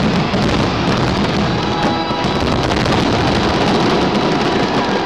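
Dense fireworks barrage: many aerial shell bursts and crackling stars going off at once, with music playing underneath.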